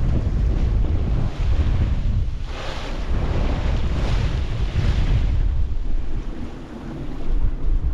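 Strong wind buffeting the microphone on a sailboat at sea, with waves rushing past the hull; the hiss of the water swells up twice, about two and a half and four seconds in.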